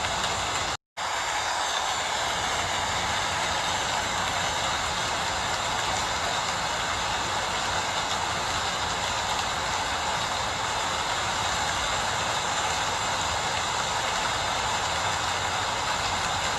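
Steady rain falling, an even hiss with no changes, cut off by a split-second dropout just under a second in.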